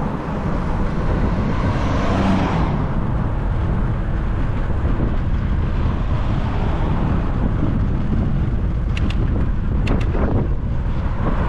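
Steady wind rumble on the microphone from a moving bicycle ride, with road traffic noise and a swell like a vehicle passing about two seconds in. A few sharp clicks near the end.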